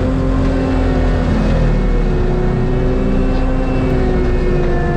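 Diesel tracked loader with a forestry mulcher head running at high revs while grinding brush: a loud, steady engine-and-drum hum whose pitch dips slightly about two seconds in and holds.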